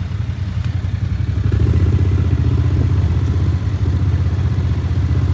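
Large diesel farm tractor engine running steadily under load while plowing, growing louder about a second and a half in.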